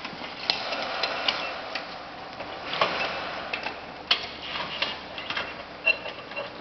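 Irregular sharp clicks and knocks, several a second at times, over a low background noise with two short noisy stretches.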